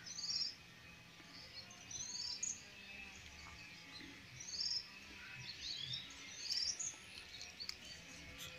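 Birds calling: short, high chirps and quick trills, some falling in pitch, repeated every second or so over faint outdoor hiss.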